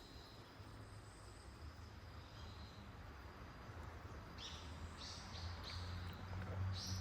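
Faint outdoor ambience: a few short, high bird calls in the second half, over a thin steady insect drone and a low rumble.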